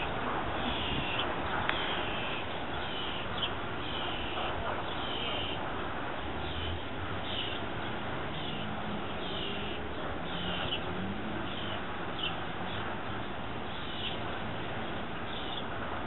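A bird calling over and over, short calls about once a second, over a steady background hiss.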